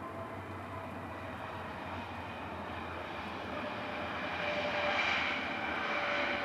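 Jet airliner's engines running, a broad rumble with a steady high whine over it, growing louder about two-thirds of the way through.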